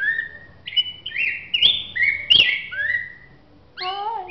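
Black-backed grosbeak (rey del bosque) singing a run of clear, whistled phrases with quick up-and-down pitch glides, with a short pause about three seconds in. A brief, lower, wavering sound follows near the end.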